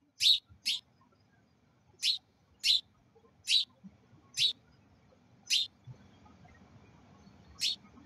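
A bird chirping: about eight short, high chirps with uneven gaps, some coming in quick pairs.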